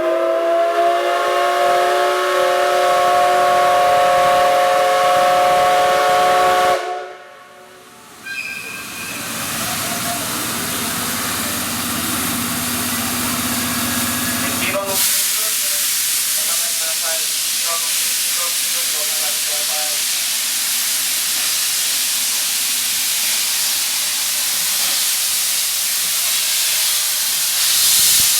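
Steam locomotive whistle blowing one long chord of several tones that stops about seven seconds in. After a short lull comes a steady hiss of steam venting from the locomotive, louder from about halfway on.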